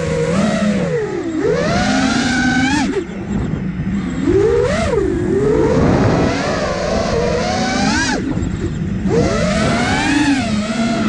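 Five-inch FPV quadcopter's brushless motors whining, the pitch swinging up and down quickly with throttle changes. Twice, about three seconds in and again near the end, the whine drops back briefly before climbing again.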